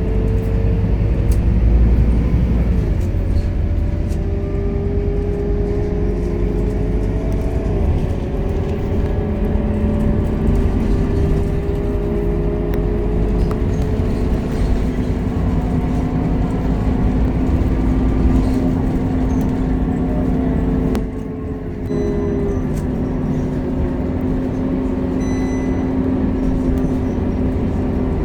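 Scania K230UB Euro V city bus under way, its engine and driveline running with a drone whose pitch glides slowly. About 21 seconds in there is a brief dip in level, and the pitch settles lower after it.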